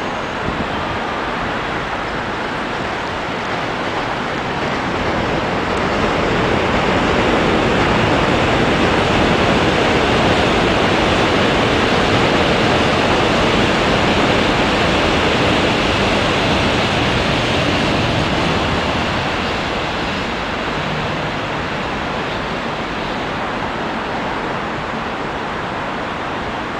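Seoul Subway Line 1 electric commuter train rolling past on the steel Hangang Railway Bridge: a steady rumbling roar of wheels on rails that swells over the first several seconds, holds loud through the middle, then eases off.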